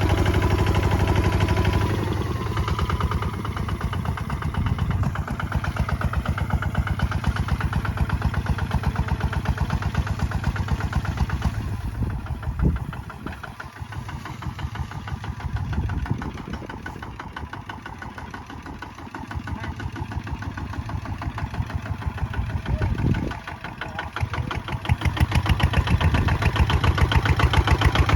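Single-cylinder diesel engine of a Kubota ZT 155 walking tractor chugging with fast, even firing pulses while plowing. It drops back about two seconds in, dips briefly twice in the middle, and grows louder again near the end.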